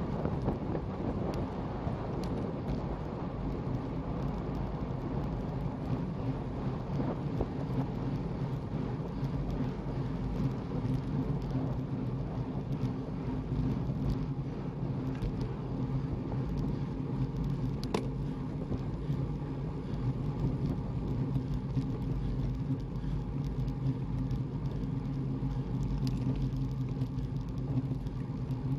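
Motor vehicle driving at a steady speed: a steady low engine hum with road and wind noise, and one faint click about eighteen seconds in.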